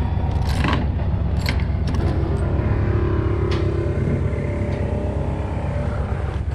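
Truck engine and road noise while driving, a steady low drone, with a few sharp rattles in the first two seconds.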